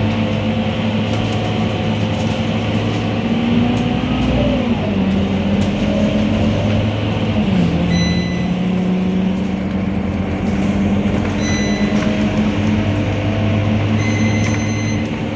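Scania K230UB bus's diesel engine running under way, its note stepping down in pitch twice, about four and a half and seven and a half seconds in. A brief high tone sounds three times in the second half.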